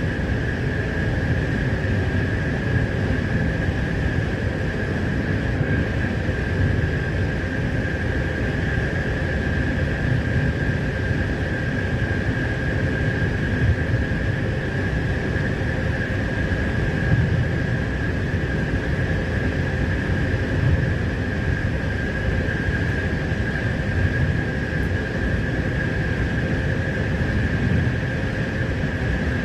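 Passenger train running at steady speed: a continuous rumble with a constant high whine.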